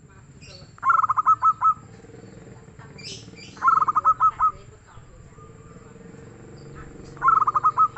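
Zebra dove (perkutut) cooing: three phrases about three seconds apart, each a quick run of staccato coo notes ending in a couple of longer ones. Faint higher chirps of other small birds come in between.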